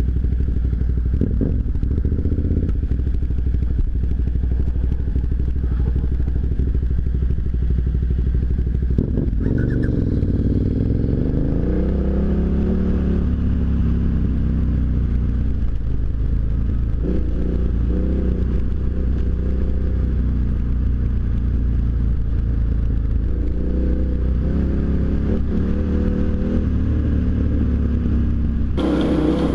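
KTM V-twin adventure motorcycle riding along, its engine running steadily and then rising and falling in pitch with throttle and gear changes from about nine seconds in, with a knock just before that.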